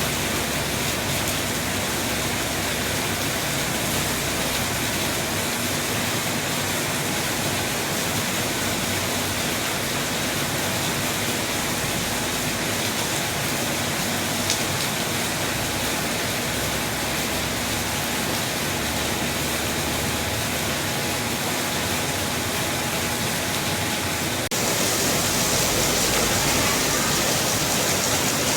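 Heavy rain falling steadily, a dense even hiss. About 24 seconds in the sound changes abruptly, becoming louder and brighter.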